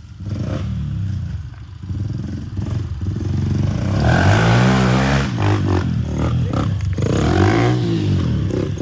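Pit bike engine running under load on a steep hill climb, revving up and easing off twice, the louder swell about four seconds in and another near the end.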